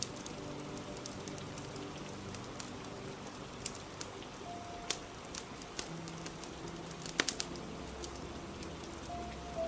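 Steady rain with scattered sharp crackles and pops from a fire, over soft background music of slow held notes.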